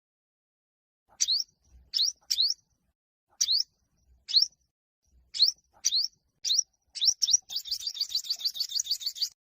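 Olive-backed (yellow-bellied) sunbird singing: sharp, high, rising notes repeated about twice a second, breaking near the end into a fast, rapid trill.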